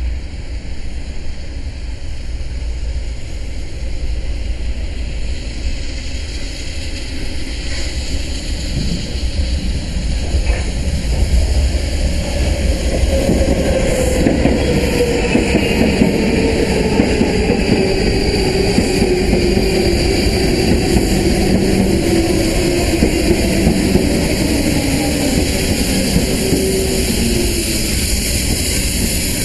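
Trains arriving at a station platform: a low rail rumble that grows louder from about ten seconds in, and a steady whine from an electric multiple unit's traction motors that falls in pitch as the unit slows.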